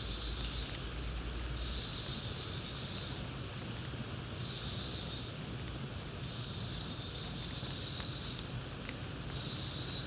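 Campfire crackling, with sharp pops scattered over a steady hiss of burning wood. A high trill sounds in stretches of about a second, five times.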